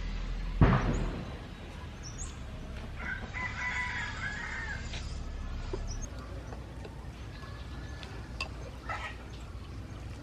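A rooster crowing once, a call lasting about two seconds, with a shorter chicken call near the end. A sharp thump comes about half a second in and is the loudest sound.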